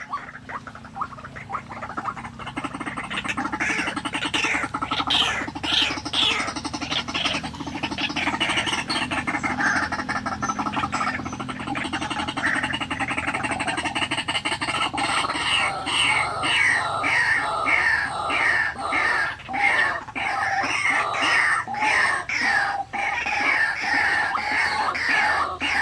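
White-breasted waterhen (ruak-ruak) calls, repeated harsh croaking notes at about two a second, the lure call a trapper uses to draw the birds in.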